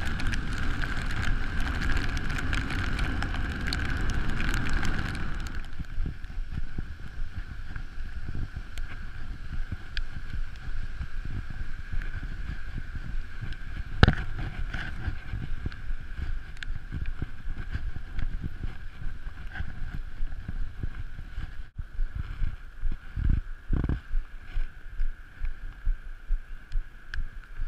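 Wind rushing over the microphone and road rumble from a bicycle coasting downhill, heavier for the first five seconds. There is a single sharp knock about halfway through.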